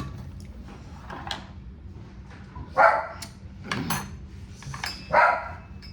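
A dog barking about four times, a second or so apart.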